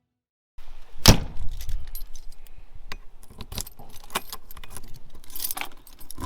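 Irregular sharp clicks and clinks of small hard objects being handled, with a loud knock about a second in.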